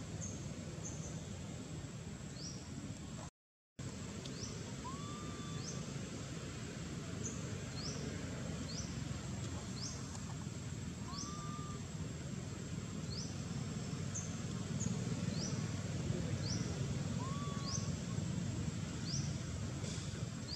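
Outdoor ambience of small birds chirping: short, high, rising chirps repeating every second or so, with an occasional lower hooked call, over steady low background noise. The sound cuts out briefly a few seconds in.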